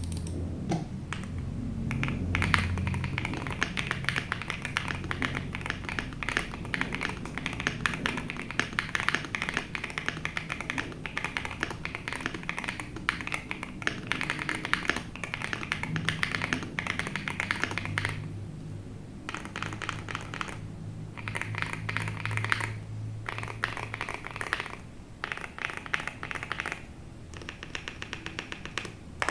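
Monsgeek M7W mechanical keyboard, fitted with Leobog Graywood V4 switches and tape-modded, being typed on quickly: a dense, continuous run of key clacks. There are a few short pauses in the second half.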